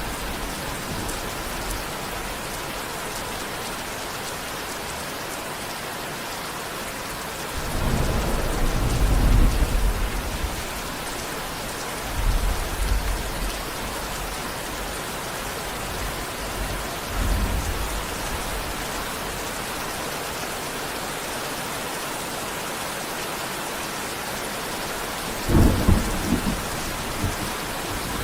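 Steady rain falling, with thunder rumbling four times: a long deep roll about eight seconds in, then shorter rumbles around twelve and seventeen seconds and a sharper one near the end.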